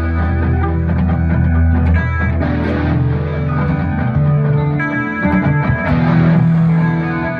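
Ibanez S370 electric guitar played through a Boss GT-1 multi-effects unit, layering ambient looped parts: held melody notes over a low sustained drone that fades out about halfway through.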